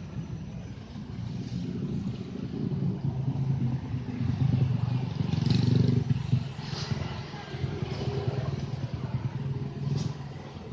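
Passenger train hauled by a CC206 diesel-electric locomotive: the engine rumbles low with rail and wheel clatter. It grows to its loudest about halfway through, then eases off.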